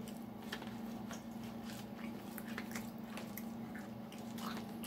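A person chewing crunchy crackers close to the microphone: irregular crisp crunches and mouth sounds, over a steady low hum.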